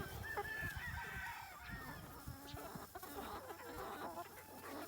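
Free-range chickens calling, with many short, overlapping clucks and squawks from the flock.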